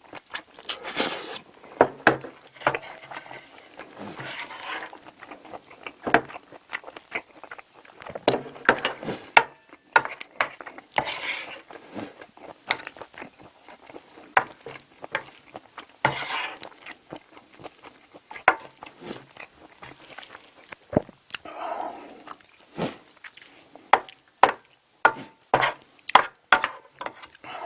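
Close-miked eating sounds: chewing and smacking mouthfuls of spicy stir-fried octopus with rice, with many short clicks and scrapes from a spoon on the dish.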